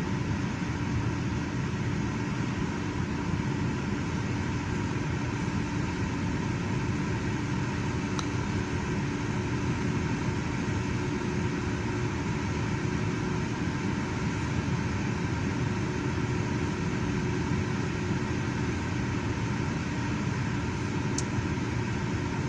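Lincoln car engine idling steadily, with one brief click near the end.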